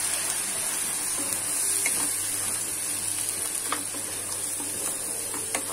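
Blended spice paste sizzling in hot oil in a non-stick pan, being sautéed until crisp and cooked through. It is stirred with a wooden spatula, with a few light taps against the pan.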